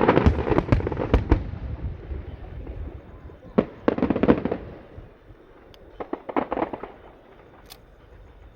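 Aerial fireworks bursting: a sudden loud volley of bangs and rapid cracks that dies away. Two shorter clusters of cracks follow, about three and a half and six seconds in.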